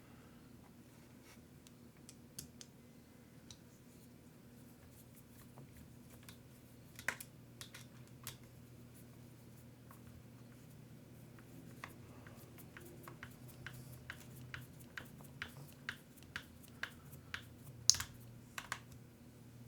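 Small hardware and tools being handled at a workbench: light clicks and taps, scattered at first and then coming quickly one after another in the second half, with one sharper click near the end. A steady low hum runs underneath.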